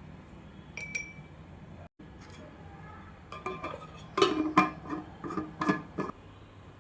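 Dishes and utensils clinking and knocking together: one ringing clink about a second in, then a quick run of knocks and clinks between about three and six seconds in.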